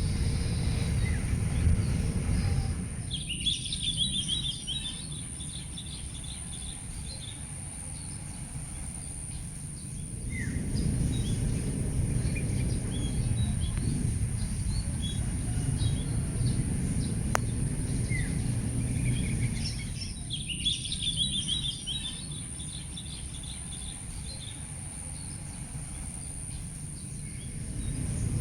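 Small birds chirping and twittering in two bursts, a few seconds in and again past the twenty-second mark, over a low background rumble that swells and fades. A steady high-pitched whine runs underneath, and there is a single sharp click about two-thirds of the way through.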